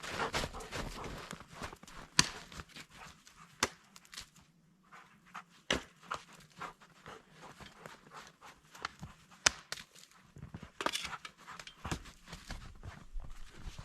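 Footsteps crunching through snow: an irregular series of crunches and sharp clicks, with a brief pause a little before the middle.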